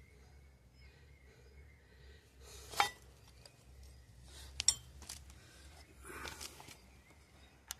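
A few scattered sharp metal clinks of tools and parts being handled, with a short rustle near the end.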